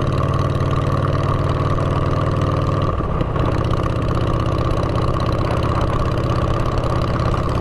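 Motorcycle engine running through aftermarket exhaust pipes at a steady note that changes and turns rougher about three seconds in.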